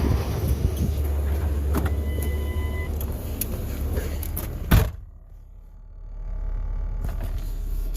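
A car's low steady rumble with scattered clicks and a short electronic chime about two seconds in, then a loud thump like a car door shutting near the middle. After the thump it goes much quieter, and a low hum returns.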